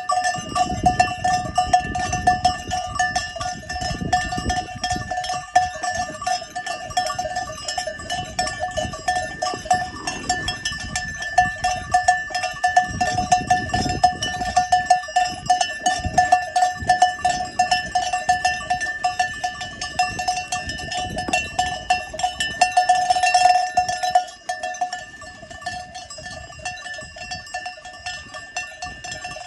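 Many bells on a flock of sheep clanking and ringing without pause as the animals move. About three-quarters of the way through one bell rings louder for a moment, then the ringing falls quieter.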